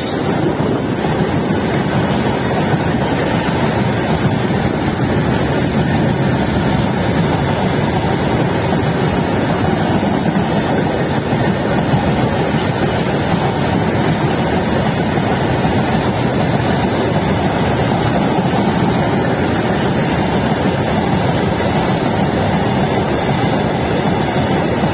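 Freight train's open box wagons rolling past close by, a steady rumble and rush of steel wheels on the rails.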